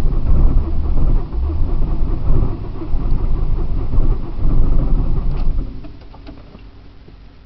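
A 1999 Saturn SC1 being cranked on its starter for a cold start, running on for about five and a half seconds without catching, then the cranking stops. It is a hard start that the owner thinks may be partly due to a fuel filter that needs replacing, since on these Saturns the fuel filter regulates fuel pressure.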